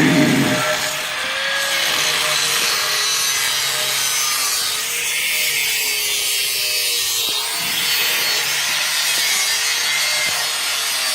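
A power tool cutting through the steel exhaust pipe to take the muffler off: a steady, harsh rasping noise with a motor whine that wavers in pitch as the cut loads it. The tail of a louder low drone fades out at the very start.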